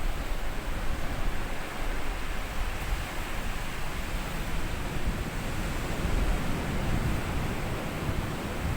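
Small sea waves washing up onto a sandy beach: a steady surf hiss over a low rumble, swelling slightly about six seconds in.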